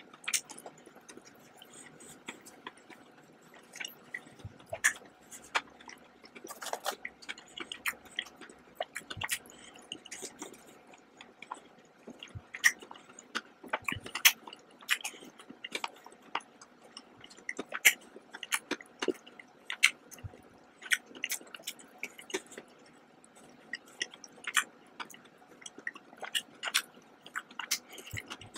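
Close-miked chewing of chocolate bar pieces, with many sharp, irregular snaps and clicks as bits are bitten off and chewed.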